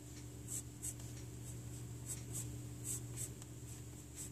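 Pencil scratching on paper in short quick strokes, about two a second, as feathers are drawn, over a low steady hum.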